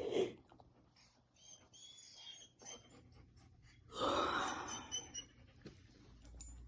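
A dog's breathy, half-finished yawn: a gasping rush of breath about four seconds in, with a faint high squeak. It is a yawn attempt that doesn't quite come, the dog unable to take a full breath.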